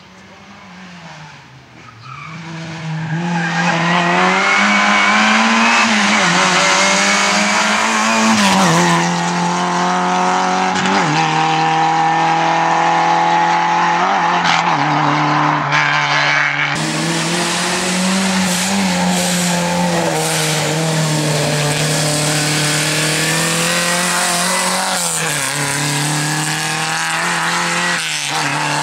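Lada 2107 rally car's engine driven hard at speed, its pitch climbing under acceleration and dropping at gear changes and lifts several times over. Quieter for the first couple of seconds, then loud throughout.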